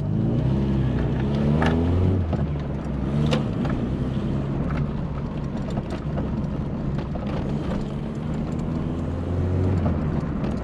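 VW Polo coupe's engine pulling away and accelerating. The pitch rises over the first two seconds, drops and climbs again, settles, then rises once more near the end, as it goes through gear changes. There are a couple of sharp clicks around two and three seconds in.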